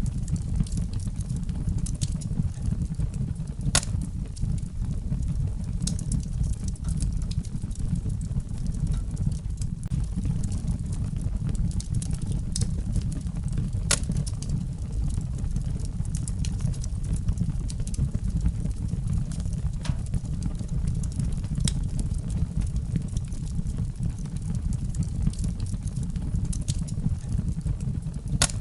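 Wood fire burning in a fireplace: a steady low rumble of flames with sharp crackles and pops every few seconds.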